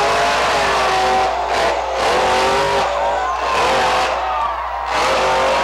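Supercharged monster truck engine running hard, its pitch rising and dropping several times.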